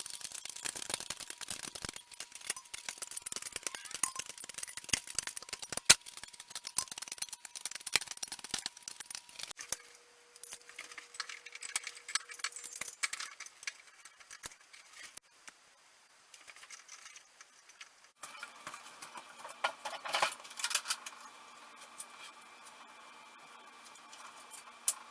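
Metal parts and tools clinking and rattling while a bench drill press is put together by hand: many small sharp clinks and knocks, busiest in the first ten seconds and sparser after. The background changes abruptly a few times.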